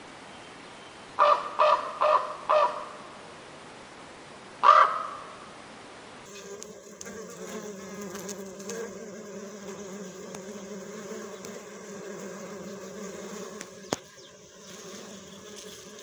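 A crow caws four times in quick succession about a second in, then once more a couple of seconds later. From about six seconds in, a hoverfly's steady buzzing hum takes over, with one sharp click near the end.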